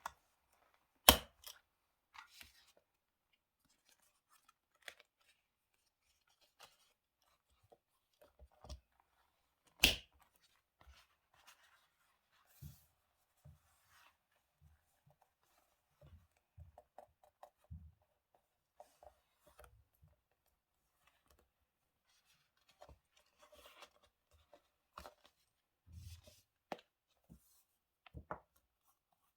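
Desk scrapbooking sounds: scattered small clicks and paper rustles of cutting and handling paper. Two sharp, loud knocks stand out, the first about a second in and the second about nine seconds later, typical of tools such as scissors or a tape-glue roller being set down hard on the desk.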